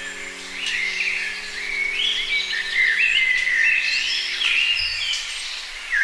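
Wild birds chirping and calling in many short, overlapping phrases that step up and down in pitch, louder from about a second in.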